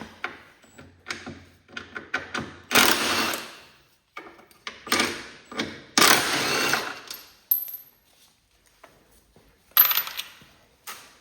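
Hand tools and metal parts clinking and scraping against each other: scattered clicks, two longer scrapes of about a second each, and a few short ringing metallic taps.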